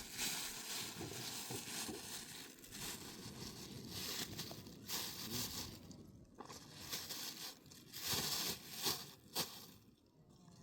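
Rustling and crackling, with a few sharp clicks in the second half.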